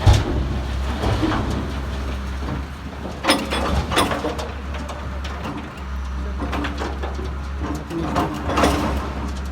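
A heavy vehicle's engine running steadily with a deep hum, with a few sharp knocks or clanks over it.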